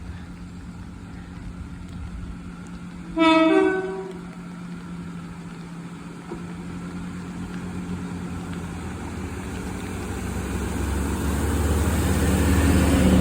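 Train horn sounding a short two-tone blast, a lower note then a higher one, about three seconds in. Then the low rumble of an approaching train builds steadily louder toward the end.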